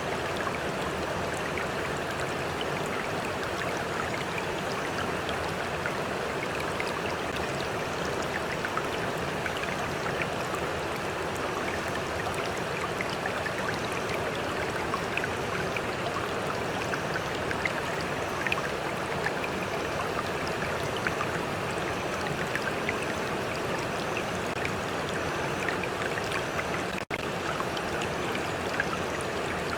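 A stream flowing steadily, a continuous rush of water with small splashes and trickles, broken by a split-second dropout near the end.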